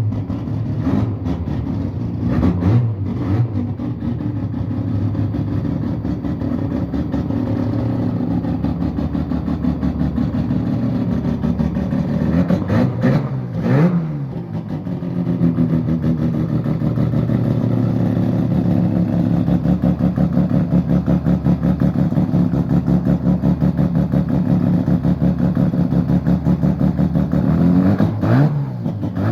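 Rotary-engined car running and revving, a steady pulsing engine drone whose pitch dips and climbs again about halfway through and once more near the end.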